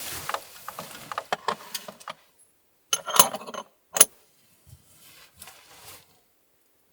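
Handling noises: a jumble of clicks, clinks and rustles for about six seconds, with two sharp clicks about three and four seconds in, then they stop.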